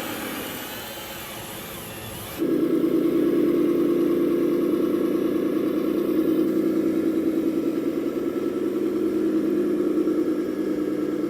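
Simulated engine sound from an RC model's sound-module loudspeaker. A quieter whirring mix with a faint rising whine gives way abruptly, about two seconds in, to a louder, steady engine running note that holds on.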